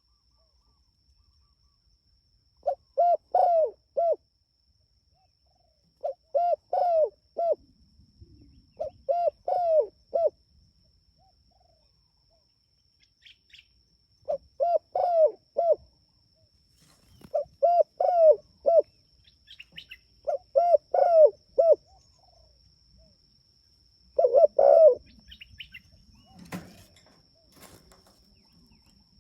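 Spotted dove cooing: seven phrases of four or five quick, bouncing coos, repeated every few seconds with short pauses between.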